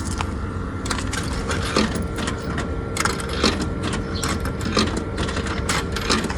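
Drink vending machine humming steadily, with irregular clicks and knocks of coins and the dispensing mechanism.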